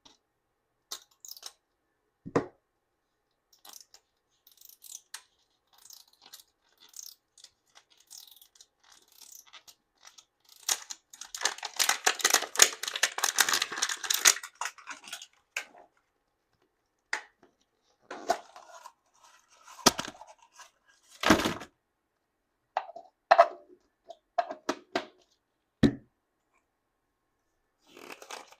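Hands unwrapping a plastic Mini Brands toy capsule. Scattered small clicks and taps are followed midway by a few seconds of dense crinkling and tearing of its plastic wrapping, then a handful of sharper plastic knocks and handling sounds.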